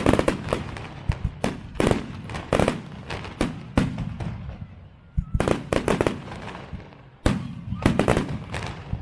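Fireworks display: aerial shells going off in rapid clusters of sharp bangs and crackles, with short lulls between volleys.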